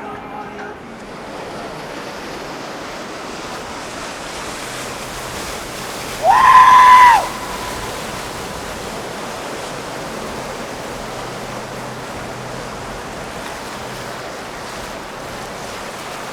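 A steady rushing noise, like wind or moving water, runs throughout. Around six seconds in, a single loud, high, steady tone sounds for about a second, bending slightly up as it starts and down as it stops.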